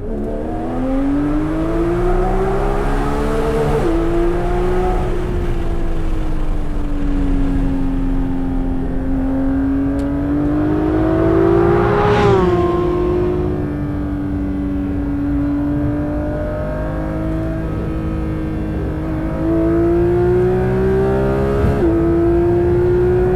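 Porsche 992 GT3's 4.0-litre naturally aspirated flat-six and lightweight exhaust, pulling hard with its pitch rising and falling. The pitch drops sharply about 4 s in and again near the end, as on upshifts. About halfway through it climbs to a peak with a sharp crackle, then falls back.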